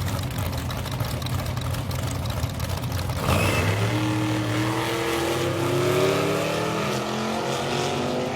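Vintage drag-racing car engine running at the line, then launching a little over three seconds in and winding out, its pitch rising as it accelerates away down the strip.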